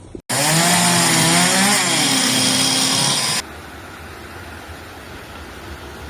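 A small motor revving loudly up and down for about three seconds, then stopping abruptly. A steady, quieter rushing noise follows.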